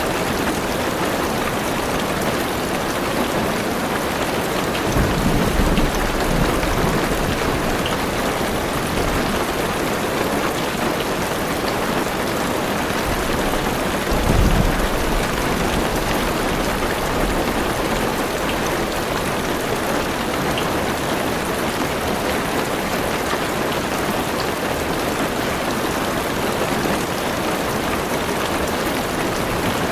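Heavy rain drumming steadily on a car's roof and windows, with low rolls of thunder twice: once about five seconds in and again around the middle.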